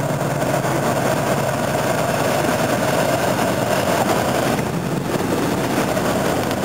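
Car engine running steadily under load as the car drives through deep floodwater, with a continuous rush of water against the body.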